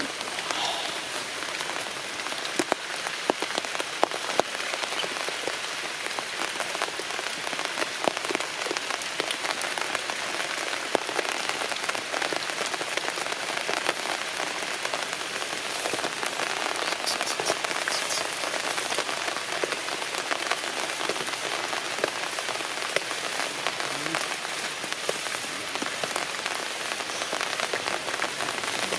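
Steady rain falling, with many sharp ticks of single drops striking nearby surfaces.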